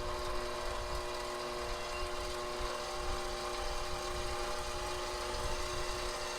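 KitchenAid Professional 6000 HD stand mixer's DC motor running at its lowest stir speed, a steady electric hum of several tones. About halfway through, a faint whine starts to rise slowly as the speed knob is turned up.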